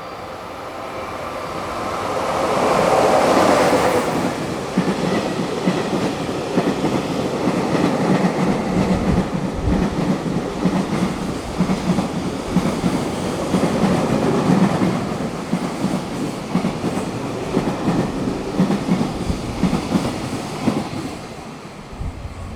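Freight train hauled by an electric locomotive passing through. The locomotive's approach builds to its loudest about three seconds in, then a long string of wagons rolls by with a steady clickety-clack of wheels over the rail joints, easing off near the end.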